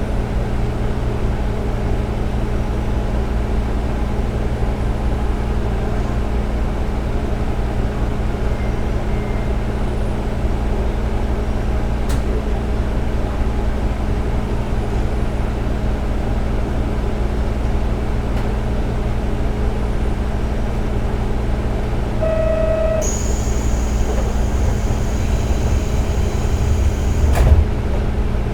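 KiHa 47 diesel railcar's engine running steadily at an even pitch, heard from inside the car. About 22 seconds in there is a short beep, then a high whine for the last few seconds, and a single sharp knock near the end.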